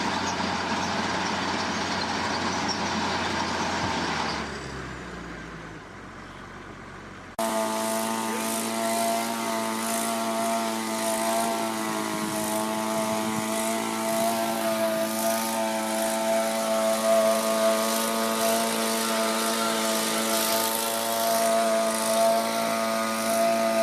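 Machinery engines running. A noisy rumbling machine fades out about four seconds in. After an abrupt cut, a steady engine drone with a clear whining pitch takes over.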